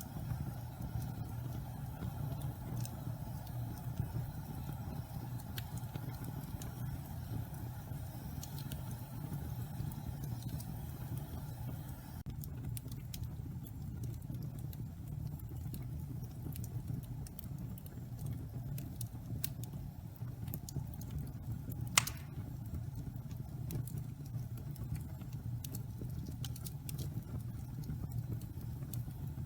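Wood fire of damp pine logs burning in a fireplace: a steady low rumble of flame with scattered light crackles and one sharp louder pop about three quarters of the way through. A soft hiss runs under the fire and stops about halfway.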